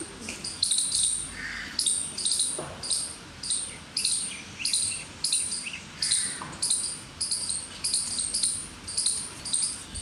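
Outdoor field recording of a bird calling: a short, high-pitched chirp repeated evenly about twice a second, with a few fainter lower calls now and then.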